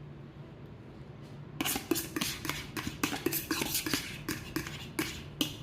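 A utensil clinking and scraping quickly and irregularly against a bowl, as garlic butter is scooped and stirred into rice. It begins about a second and a half in, over a low steady hum.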